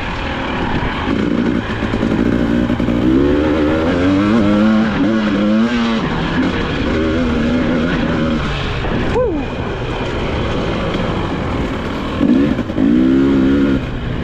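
Two-stroke 300 cc engine of a 2022 Husqvarna TE300i enduro bike revving up and down under a working throttle. Its pitch climbs in sweeps and falls away several times, with a brief sharp drop about nine seconds in.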